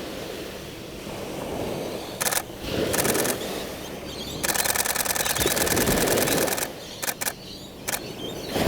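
Canon 7D Mark II shutter firing in continuous high-speed bursts: two short bursts about two and three seconds in, a longer run of about two seconds through the middle, and a couple of brief bursts near the end. Waves breaking on the shore underneath.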